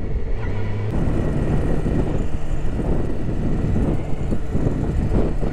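2000 Yamaha R6 inline-four engine running while the motorcycle is ridden. From about a second in, heavy wind noise on the microphone rumbles over it.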